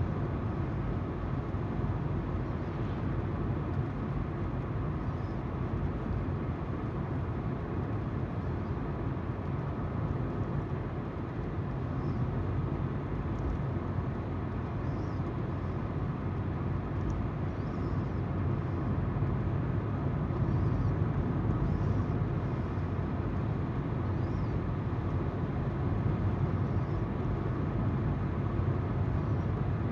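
Steady tyre noise and engine hum of a car driving along, heard from inside.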